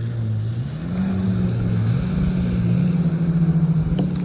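Motorboat engine running close by, its pitch rising about a second in and then holding steady.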